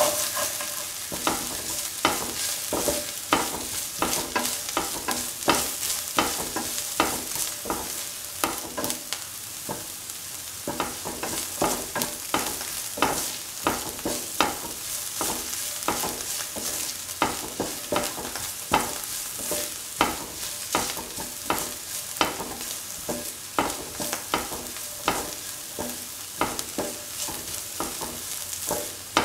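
Chopped ginger frying in oil in a pan, sizzling steadily, fried to golden brown. It is being stirred, the utensil tapping and scraping the pan about once or twice a second.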